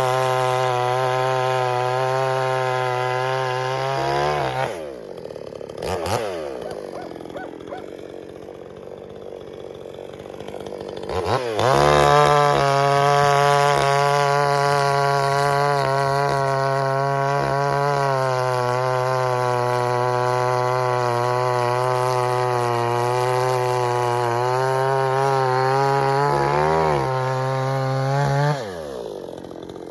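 Pinkway 63cc two-stroke chainsaw running at full throttle through a large log. It drops to idle after about four seconds, with a sharp click while idling, revs back up about eleven seconds in, and holds high revs with slight wavering for roughly seventeen seconds before dropping to idle again near the end.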